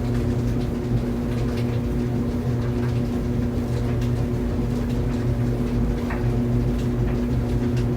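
Tumble clothes dryer running steadily: an even low hum with several steady tones over a rumble, with light, irregular ticks scattered through it.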